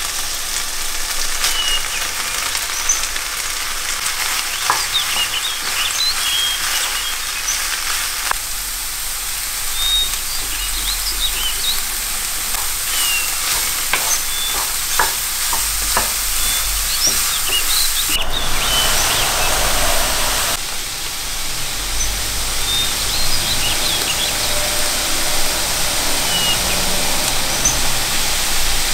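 Chicken, carrot and grated cauliflower sizzling as they fry in oil in a pan, a steady hiss with small crackles. A wooden spatula stirs through the mix, knocking against the pan now and then.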